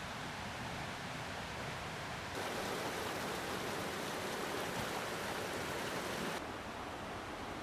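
Mountain stream rushing, a steady wash of water. About two seconds in it switches abruptly to a louder, fuller rush for about four seconds, then drops back.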